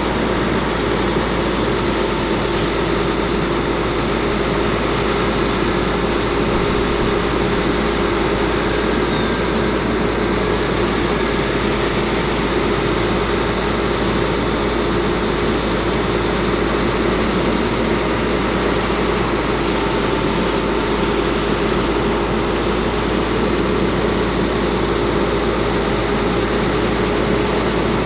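Caterpillar C7 diesel engine of a Ford F750 bucket truck running steadily, with a constant hum and no change in speed.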